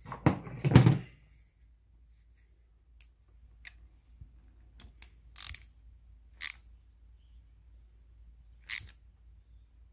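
Hand tools handled on the engine: a loud clatter of knocks in the first second, then a few separate sharp clicks spread out over the next several seconds.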